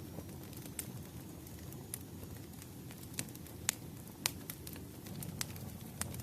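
Wood fire burning, with a steady low rush and scattered sharp crackles and pops; two pops a little past the middle are the loudest.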